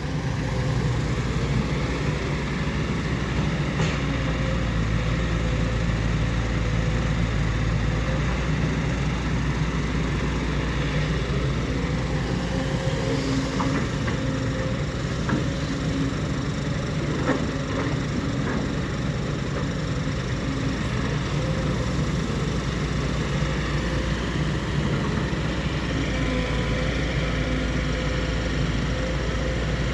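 Heavy diesel engines of earth-moving machinery, an excavator and a six-wheel dump truck, running steadily at a loading site, with a few faint knocks in the middle.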